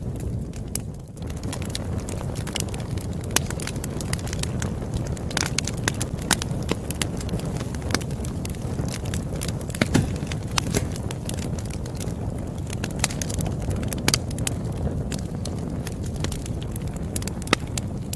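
Campfire burning: a steady low rumble with sharp crackles and pops at irregular intervals.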